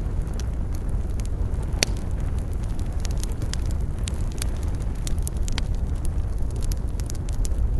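Wood campfire crackling: irregular sharp pops and snaps, the loudest about two seconds in, over a steady low rumble.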